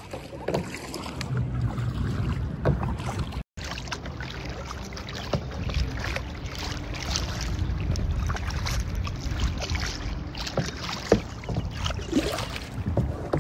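Water splashing and lapping around a kayak on the sea, with wind buffeting the microphone. The sound cuts out for an instant about three and a half seconds in.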